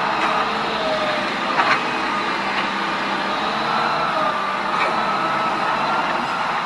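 Vehicle engine running steadily over a constant rushing noise, its hum wavering slightly in pitch, with one brief sharp click nearly two seconds in.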